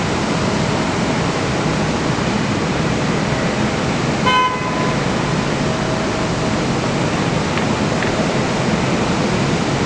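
Steady wind rushing over the microphone in strong wind, with a short pitched beep, like a horn toot, about four and a half seconds in.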